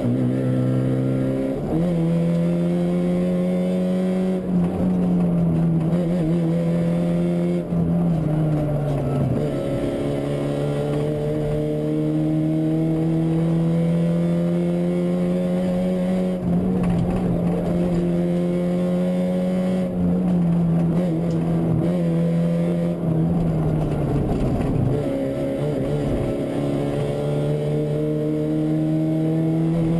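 Fiat Punto 1.8 rally car's four-cylinder engine heard from inside the car on a stage run, pulling hard with the pitch climbing and then dropping sharply at each gear change or lift, about half a dozen times.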